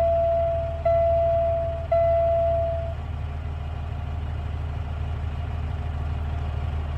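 Dump truck's dashboard warning buzzer sounding as the key is turned, a steady tone that restarts about once a second and stops about three seconds in, with no cranking from the starter: the truck won't turn over. A steady low hum runs underneath.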